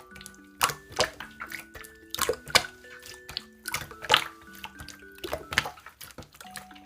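Slime being squished and pressed by hand, giving irregular wet clicks and pops, over light background music of simple held notes.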